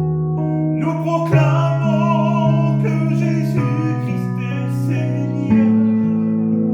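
A hymn being sung: a voice singing over a held instrumental accompaniment whose notes change every second or so.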